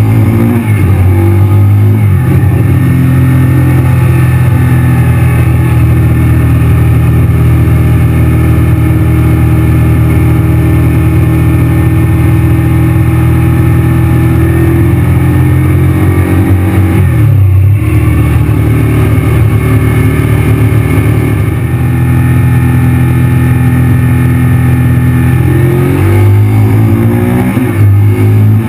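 Honda VTR1000's V-twin engine running steadily under load at road speed. Its note dips and recovers a little past halfway and changes again near the end.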